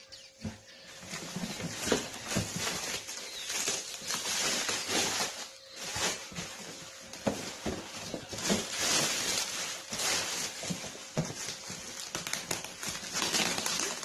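Cardboard box and packaging handled and opened: irregular rustling and crinkling with many small knocks and clicks.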